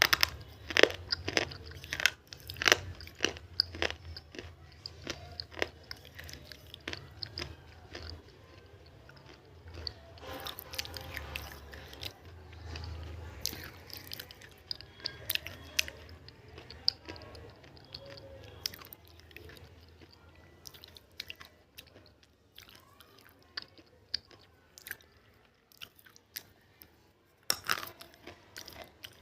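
Close-miked crunchy food being bitten and chewed: sharp, crackling crunches again and again, thickest in the first few seconds and near the end, with softer chewing in between.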